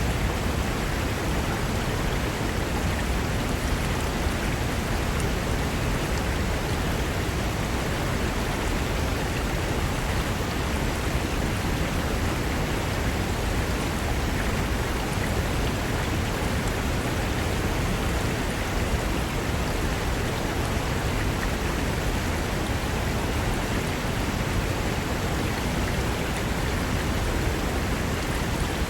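Fast mountain river rushing over rocks: a steady, dense roar of water with no breaks.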